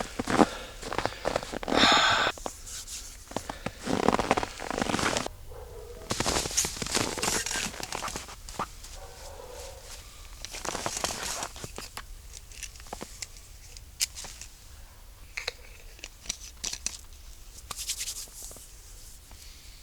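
Irregular rustling and crinkling of things being handled, in bursts of about a second, with scattered light clicks and knocks.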